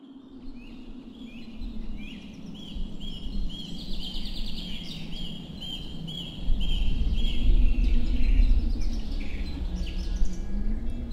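A songbird repeating one short chirp over and over, about two to three a second, in a forest. Under it a deep rumble swells about six and a half seconds in and becomes the loudest sound.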